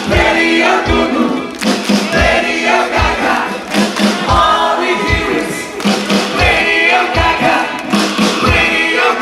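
Live rock band playing, with singing over it and a thumping kick drum.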